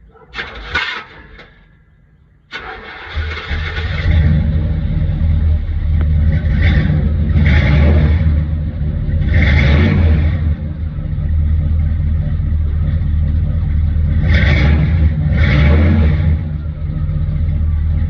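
A 1976 Chevrolet Malibu's 350 small-block V8 starting from cold: a brief burst of noise, then the engine fires about two and a half seconds in and settles into a steady low rumble. It is blipped up in revs a few times, twice in quick pairs.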